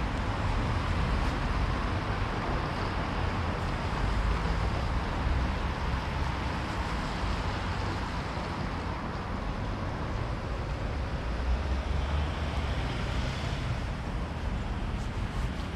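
Steady road traffic noise: a constant rumble and hiss of passing cars.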